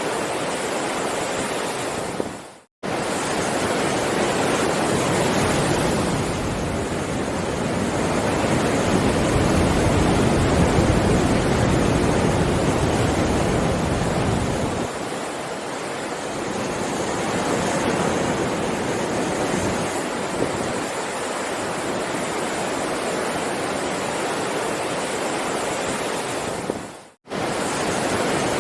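Heavy ocean waves breaking and washing, a dense steady rush that swells and ebbs over several seconds. Two brief cuts to silence break it, about three seconds in and near the end.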